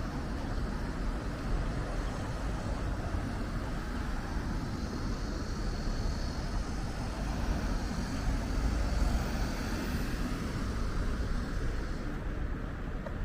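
Steady street traffic noise of passing vehicles, swelling a little a few seconds past the middle.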